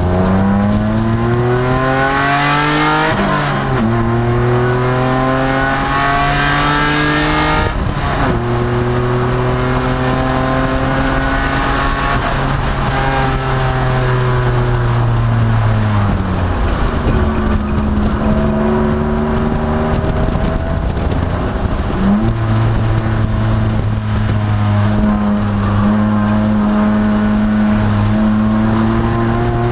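Race-prepared 2002 Nissan Maxima's V6 engine under hard acceleration, heard on board. The engine note rises through two gear changes in the first eight seconds and then holds steady. Around the middle it drops away as the car slows for a corner, then pulls up again and holds.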